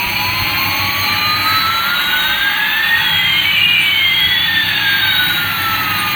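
Electronic jet-engine sound effect: a steady hiss under two whines, one rising in pitch and one falling, that cross about halfway through.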